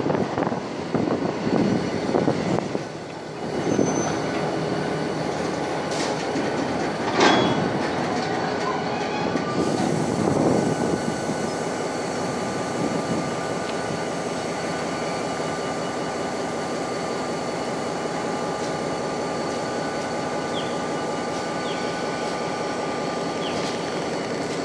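Loaded container freight train rolling past close by: the steady rumble and rattle of wagon wheels on the rails, with a thin steady wheel squeal over it. A few sharp clanks stand out in the first eight seconds, after which the rolling noise settles evenly.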